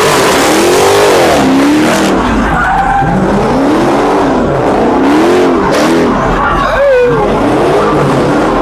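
A car engine revving up and down again and again, about once a second, with tires skidding on pavement.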